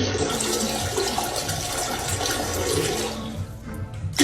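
Water rushing, dying away after about three seconds.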